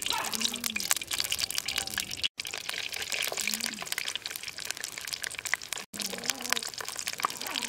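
Sliced lemongrass, ginger and kaffir lime leaves frying in hot oil in a wok: a steady crackling sizzle of many small pops. It cuts out briefly twice.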